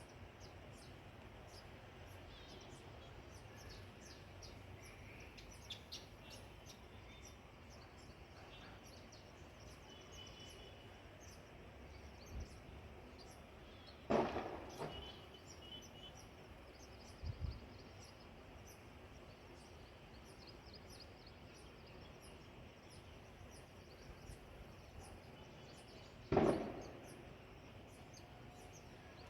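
Faint, scattered chirps of house sparrows over a steady background hush. Two louder sudden sounds stand out, about halfway through and near the end.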